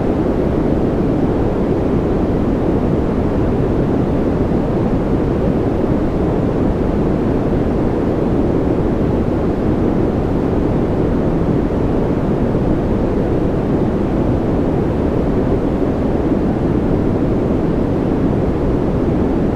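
Steady white-noise track, an even, unbroken rushing that sits deep and muffled, with little high hiss.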